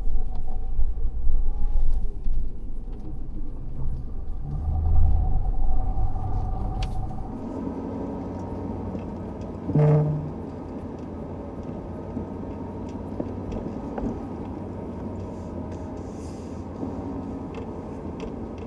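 Ford F-350 pickup truck's engine running, loudest and uneven for the first several seconds, then settling to a steady low rumble as the truck moves off. A brief tone sounds about ten seconds in.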